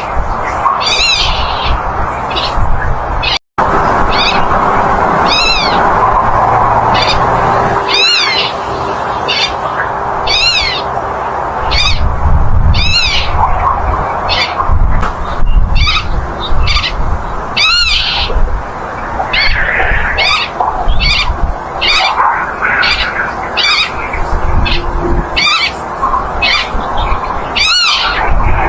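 Black-tailed godwit calling over and over in short rising-and-falling calls, about one a second, over a steady background hiss. There is a brief dropout to silence about three seconds in.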